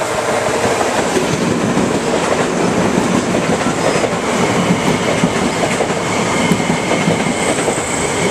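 Bombardier M7A electric multiple-unit train rolling into the station past the platform, its wheels clattering over the track in a steady, loud rumble. A steady high tone joins in near the end.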